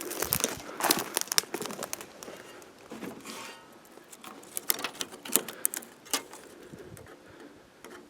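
Footsteps crunching through dry twigs and brush: irregular cracks and rustles, busiest in the first second and a half and again around five seconds in.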